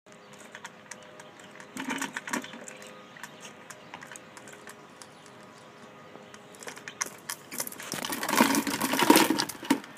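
Squirrel scrabbling and rattling about inside a bird feeder: quick light clicks and scratches, busiest about two seconds in and loudest near the end.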